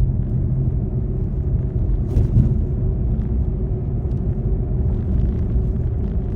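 Car driving, a steady low rumble of engine and road noise, with a short knock about two seconds in.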